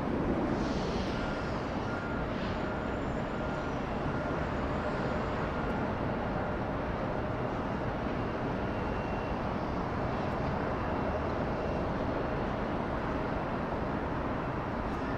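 Embraer E175 regional jet's CF34 turbofan engines making a steady jet rush with faint whining tones.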